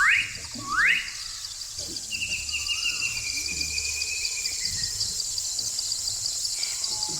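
A steady, high-pitched chorus of insects, with a bird calling over it: two quick rising whistles near the start, then a run of notes that slowly falls in pitch.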